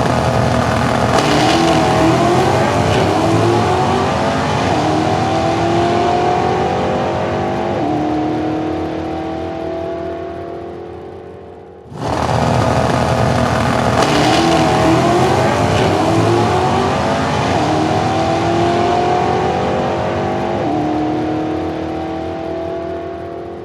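Racing car engine running loud, its pitch rising and wavering, then levelling off and slowly fading. About halfway through it drops out and the same sound starts again.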